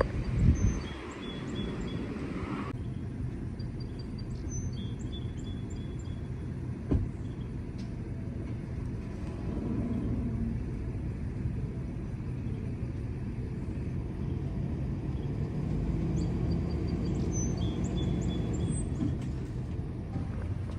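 Truck engine running steadily, with a heavy thump about half a second in and a single sharp knock about seven seconds in.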